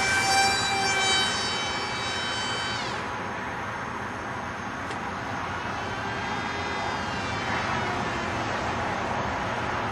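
Electric motor and propeller of a small RC flying wing whining in flight. The pitch sags slightly as it passes, then it fades out about three seconds in, and a fainter whine returns later.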